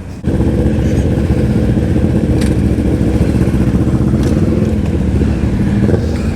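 Motorcycle engine running steadily and close, cutting in suddenly about a quarter second in.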